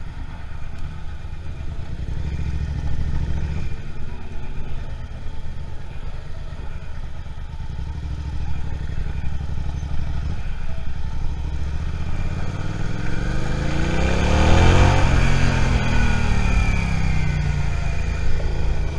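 Suzuki SV650 V-twin motorcycle engine running at low speed in traffic. About three-quarters of the way through, a louder vehicle passes close by, its sound swelling and fading.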